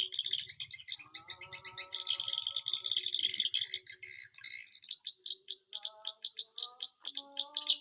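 Swiftlets twittering: fast trains of sharp chirps and clicks, with a few short held notes among them.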